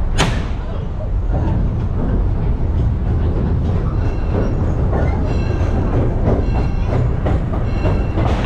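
Open-sided passenger car of a steam-hauled park railroad rolling along the track: a steady rumble with clicks of the wheels over rail joints. A single sharp crack sounds just at the start.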